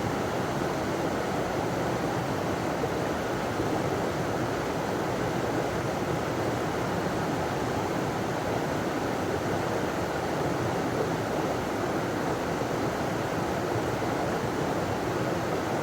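Small river rushing steadily over a small waterfall: a constant, even roar of falling water.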